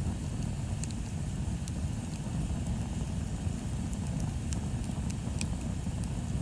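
Wood bonfire crackling: scattered sharp pops and snaps, the loudest about five seconds in, over a steady low rumble.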